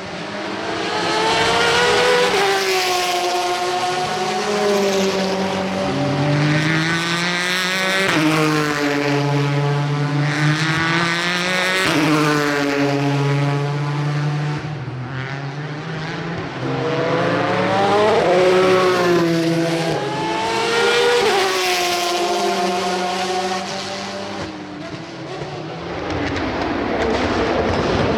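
Endurance race cars passing one after another at full racing pace. Their engine notes glide up as they accelerate through the gears and drop on the downshifts, several times over.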